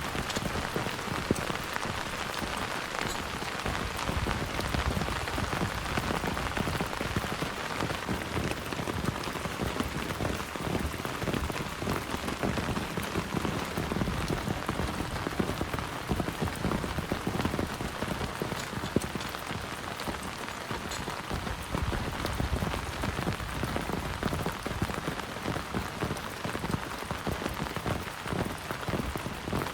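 Heavy rain falling steadily, with many separate drop hits close by amid a constant rushing wash.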